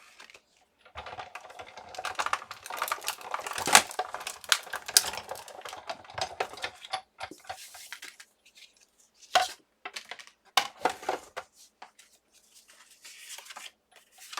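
Clattering and rustling of cutting plates, steel-rule die and cardstock being handled at a Sizzix Big Shot die-cutting machine, busy for the first half, then a few separate sharp clicks.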